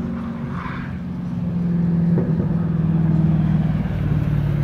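Drift car's engine running at a steady pitch as the car slides past, growing louder about two seconds in as it comes close.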